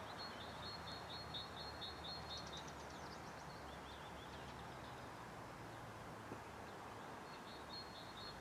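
Songbirds singing: a trill of quick, repeated high notes through the first three seconds, a few lower chirps after, and the trill again near the end, over faint, steady outdoor background noise.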